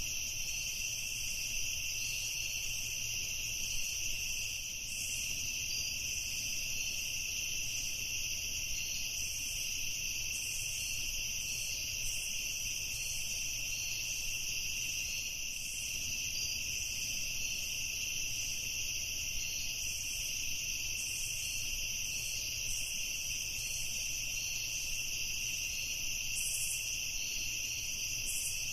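Evening chorus of crickets trilling steadily and without a break, over a faint low rumble.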